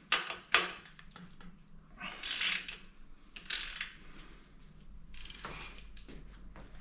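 Metal tools and parts being handled while a Ford Focus ST engine is taken apart: a few sharp knocks and clicks near the start, then several short rasping bursts.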